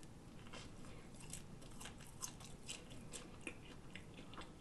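Close-miked chewing of a cod fish slider on a soft, buttery bun: faint, scattered, wet mouth clicks.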